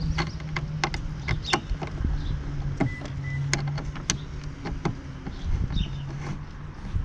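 Irregular sharp clicks and knocks of hand tools and mounting hardware as windscreen bolts are fitted and tightened on a motorcycle, over a low steady hum that comes and goes.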